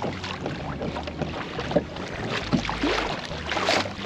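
Water splashing and lapping against the hull of a pedal kayak under way, with irregular short splashes and a steady low hum beneath.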